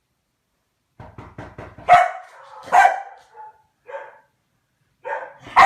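A dog barking: a few quick clicks, then loud barks about two and three seconds in, two smaller ones after, and two more barks near the end.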